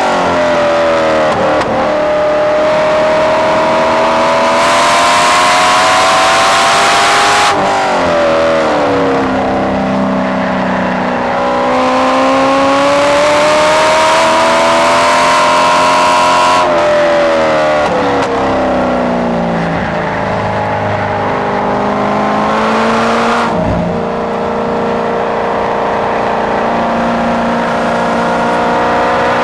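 C5 Corvette Z06's LS6 V8 heard from inside the cabin at full throttle on a race track, its note climbing under hard acceleration. Three times the pitch falls sharply and the rushing noise drops away as the driver lifts off for a corner, then the engine pulls up through the revs again.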